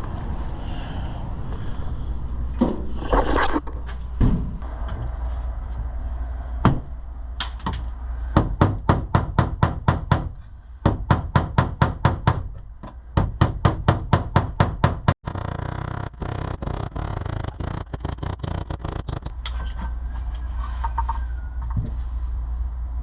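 Rapid, evenly spaced knocking in three runs of about two seconds each, four or five knocks a second, over a steady low rumble.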